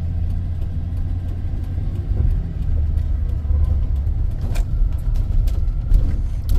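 Vehicle in motion heard from inside the cab: a steady low engine and road rumble.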